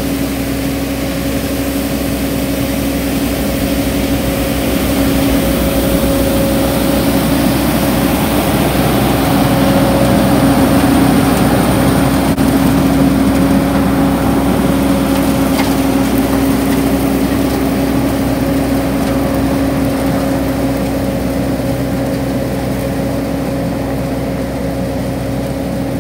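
Street vacuum-sweeper truck running steadily, its engine and suction fan giving a constant droning hum, growing a little louder toward the middle and then easing off.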